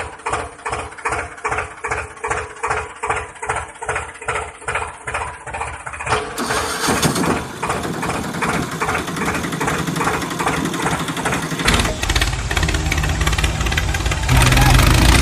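An engine chugging in even beats, about three a second, then running faster and rougher from about six seconds in, with a heavier, deeper rumble over the last few seconds.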